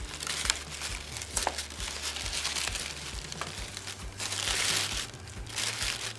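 Tissue paper crinkling in irregular rustles as it is handled and twisted into shape.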